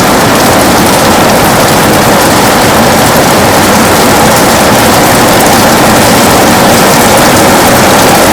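Heavy rain falling steadily on a window, a loud, even hiss with fine patter of drops.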